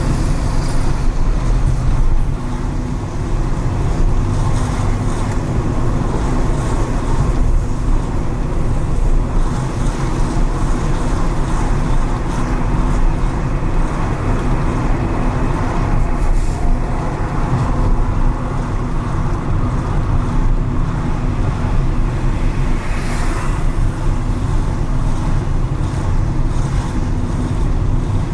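Car driving on city streets: a steady low engine and tyre rumble with road hiss from tyres on wet pavement, and a brief louder hiss about 23 seconds in.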